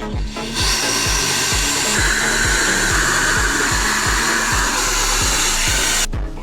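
KiCA JetFan Max handheld electric air blower running at full power, a loud rushing jet of air that starts about half a second in and cuts off suddenly near the end, with a higher whine joining in the middle. Background music with a steady beat plays underneath.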